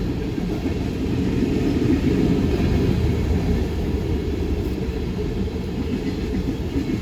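Freight train rolling past, a steady low rumble of cars on the rails.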